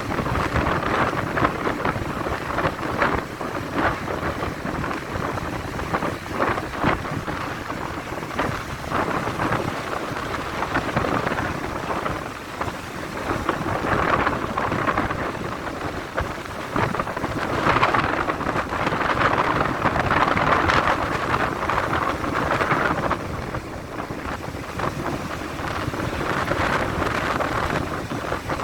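Stormy sea surf: big waves breaking and washing up the shore one after another in a continuous rushing noise, swelling louder as the bigger waves come in.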